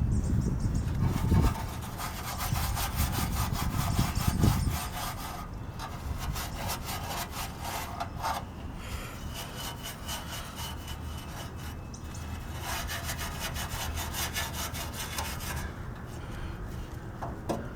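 Hand scrubbing on a motorcycle frame: rapid back-and-forth strokes in four spells of a few seconds each, with short pauses between. A few dull knocks in the first few seconds.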